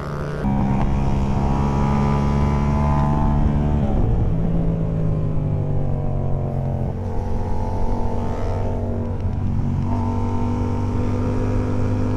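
Yamaha MT-07 motorcycle's 689 cc parallel-twin engine running under way, holding a steady note with changes in engine pitch about four, seven and ten seconds in.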